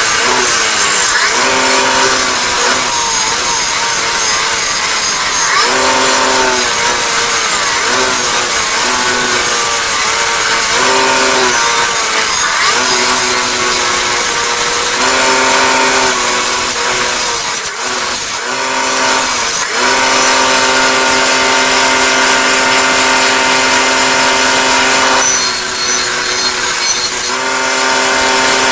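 Power tool fitted with a wire brush scrubbing rust and dirt off the steel of an antique iron: a rough, continuous scouring noise over a motor hum that keeps cutting in and out as the brush is pressed on and eased off.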